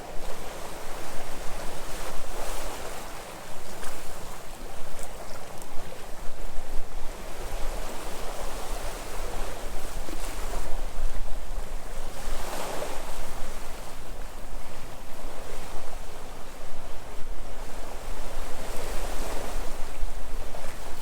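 Sea waves breaking and washing ashore in a continuous wash, swelling louder several times, most strongly a little past halfway through.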